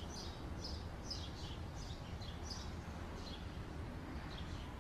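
Faint, high chirps of small birds scattered throughout, over a low, steady background rumble.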